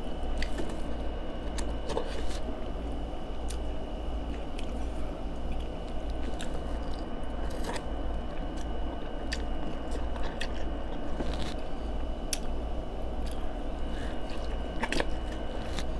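Close-up biting and chewing of sauce-coated boiled corn on the cob, with scattered sharp wet mouth clicks and smacks. A steady low hum runs underneath.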